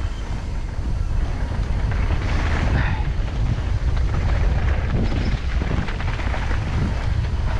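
Wind buffeting the microphone of a mountain biker's action camera during a downhill ride, a steady low rumble, with the rattle and crunch of the bike and tyres on the trail.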